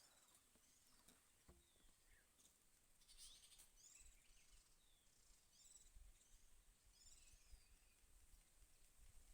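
Faint calls of small birds: scattered short chirps and whistled notes, several in quick groups, over a quiet background.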